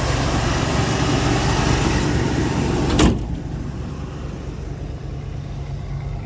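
1976 Ford F-150 engine idling steadily shortly after a cold start. A single loud slam comes about three seconds in, and after it the engine sounds duller and quieter.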